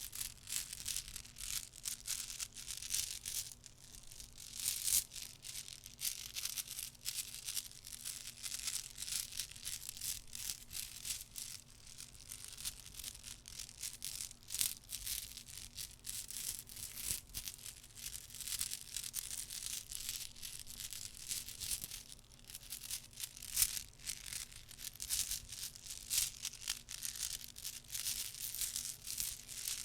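Rapid, soft clicking and scratchy rustling from small objects handled close to the microphone, going on without a break.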